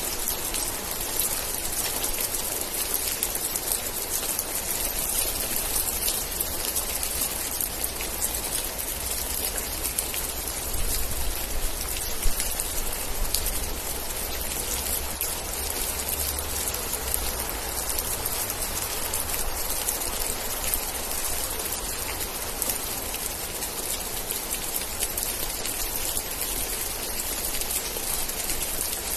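Steady rain, a dense hiss with many individual drops ticking, under a low rumble that swells in the middle and one sharper louder drop or tap about twelve seconds in.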